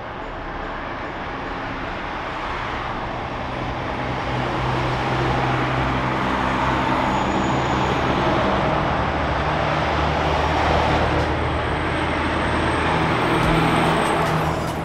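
REM light-metro train approaching on its track, its running noise growing steadily louder as it nears, with road traffic from the adjacent road in the same steady din.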